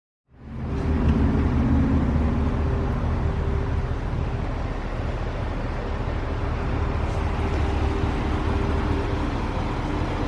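Steady road and engine noise inside a moving car's cabin, a low rumble that comes in suddenly just after the start.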